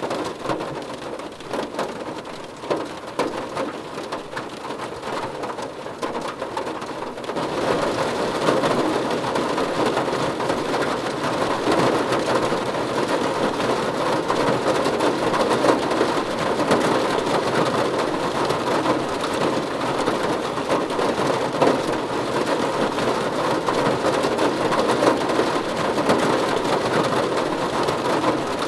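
Steady rain falling and pattering on a surface. It gets heavier and louder about seven seconds in.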